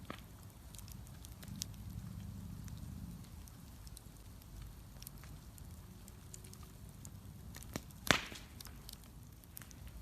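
Wood bonfire crackling, with scattered small snaps over a low steady rumble. One much louder sharp pop comes about eight seconds in.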